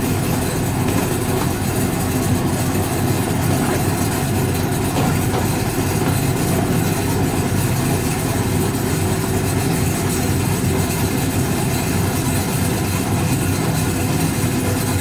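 1965 English Electric Liberator washing machine running: a steady, unbroken mechanical drone from its motor and drum.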